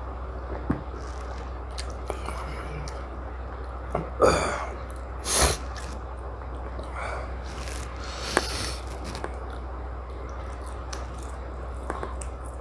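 Close-miked eating sounds: a person chewing chicken biryani and tandoori chicken, with small wet clicks of the mouth and two loud sniffs about four and five and a half seconds in, over a steady low hum.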